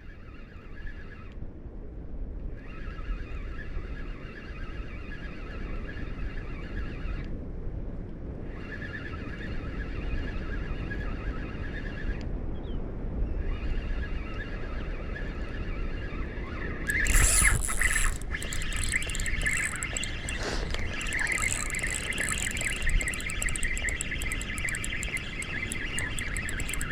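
Outdoor ambience: a steady low wind rumble under high, buzzing calls that come in bouts of several seconds with short breaks between them. About seventeen seconds in, the calls grow louder and denser.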